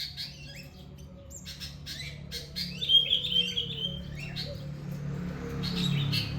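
Several small birds chirping and calling in quick, short notes, with a louder warbling trill about halfway through. A steady low hum runs underneath.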